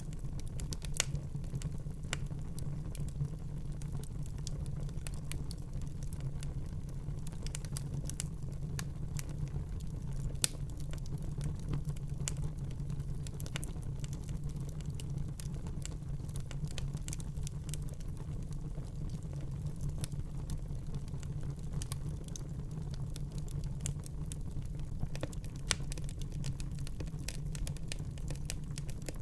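Wood fire burning in a fireplace, crackling with irregular small snaps and a few louder pops over a steady low rumble of the flames.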